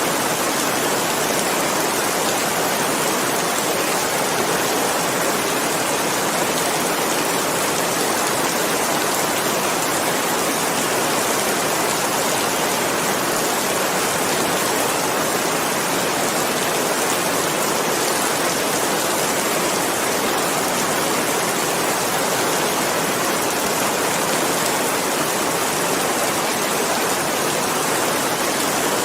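Steady rain: an even, unbroken hiss of falling drops that keeps the same level throughout.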